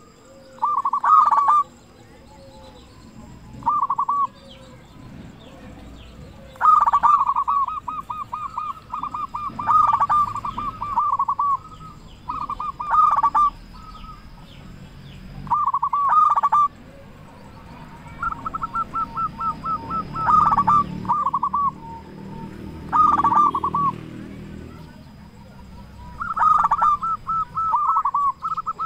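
Zebra dove (perkutut) cooing its rhythmic song: loud phrases of fast, trilled notes about a second long, repeated again and again with short pauses between them.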